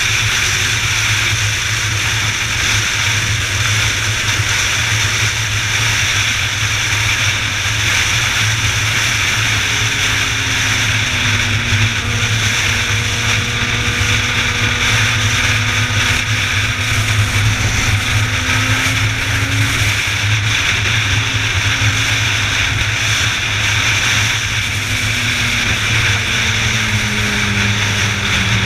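A motor vehicle travelling at speed: steady engine and road noise with heavy wind rush, the engine's pitch drifting slowly up and down.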